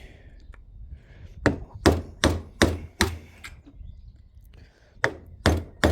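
Hammer blows on a screwdriver being driven into the seam of a bush to find and open its split. Five quick blows, a pause of about two seconds, then three more.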